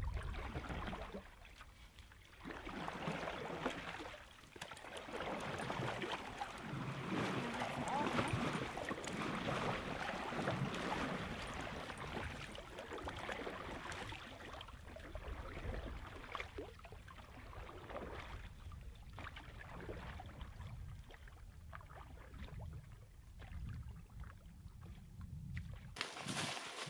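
Water splashing and lapping around a canoe on the move.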